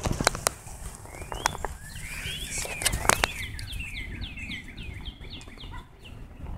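A songbird singing: a few rising-and-falling whistles, then a quick run of short down-slurred notes, about four a second. A low rumble runs underneath, with a few sharp knocks near the start and around three seconds in.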